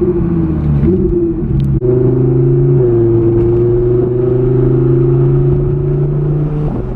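Car engine running at steady revs, with a short break about two seconds in where the pitch steps to a new note, which then holds steady until near the end.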